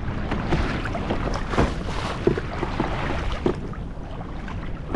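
Sea water in the wash splashing and gurgling against a kayak hull, with many small irregular splashes over a steady rushing background.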